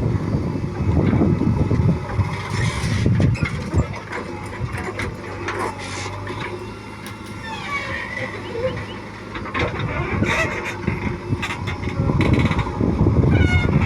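Heavy diesel machinery working in mud: engine noise swelling and easing, loudest at the start and again near the end, with a few sharp clanks.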